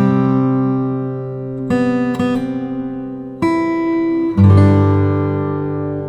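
Background music: an acoustic guitar playing ringing chords, a new chord struck every second or two.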